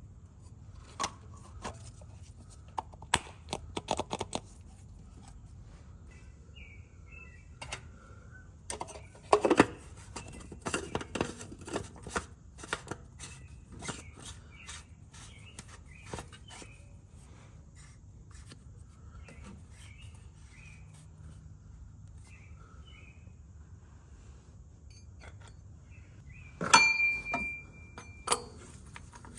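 Scattered clicks, taps and knocks of oil-change tools and filter parts being handled, with a louder clatter and a brief metallic ring near the end.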